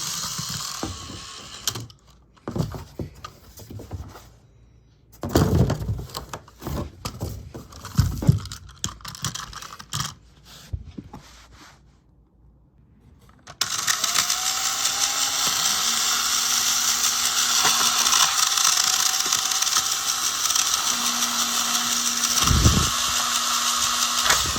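Motorized toy train with a modified motor and gearing: intermittent clattering and knocks, then from about 14 s a steady high-pitched whir of the train running on its track.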